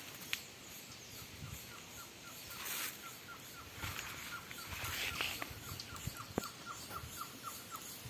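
A bird calling a long, even run of short whistled notes, about five a second, over footsteps crunching through dry leaves.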